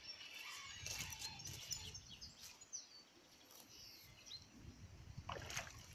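Small birds chirping in short high calls over faint outdoor background noise, with a few brief clicks about a second in.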